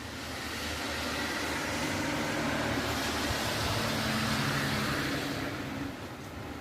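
A car passing on a rain-wet street: its tyre hiss and engine swell up over the first two seconds, hold, then fade near the end, over steady rain.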